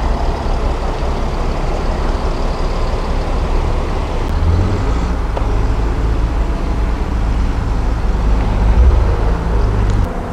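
Mercedes-AMG CLA45's 2.0-litre turbocharged four-cylinder engine running with a steady low rumble, swelling a little near the end before easing off.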